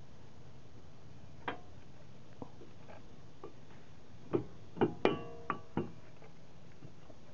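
Brake pads clinking against the caliper bracket as they are handled and seated: a light click about a second and a half in, then a quick cluster of five sharp metal knocks in the second half, one of them ringing briefly.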